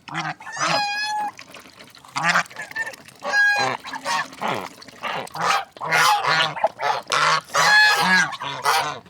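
Domestic geese honking, three longer honks among many shorter calls, busiest in the second half.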